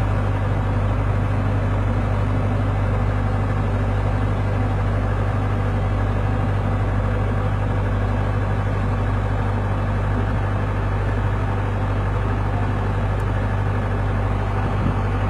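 A steady low engine hum that does not change throughout.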